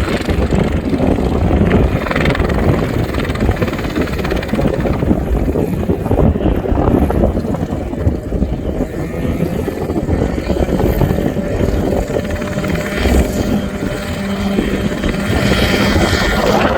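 Mosquito ultralight helicopter running, its engine and rotor making a steady, loud rumble. A faint whine rises slowly in pitch in the second half.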